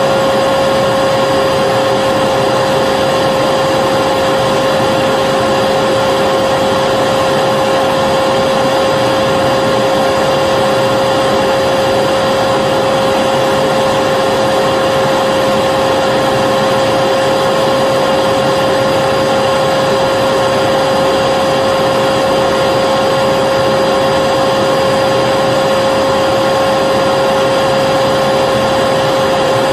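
Vacuum cleaner running steadily, a constant whoosh of air with a high motor whine held on one pitch throughout.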